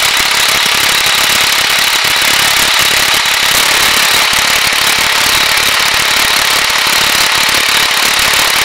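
Cummins 5.9 turbo diesel of a 1995 Ford F800 dump truck running steadily, loud and close, with a hissing, clattering edge.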